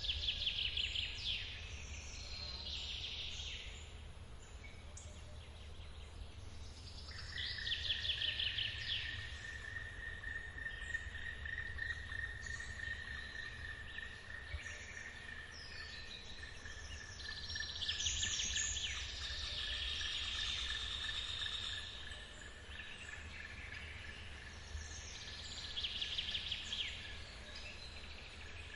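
Forest birds singing in short bursts of rapid trilled notes every few seconds, over the steady low rush of a waterfall. A steady high-pitched tone joins about seven seconds in and holds.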